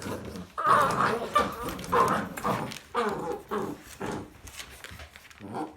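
American Bully puppy barking in a string of short barks, about two a second, growing fainter near the end.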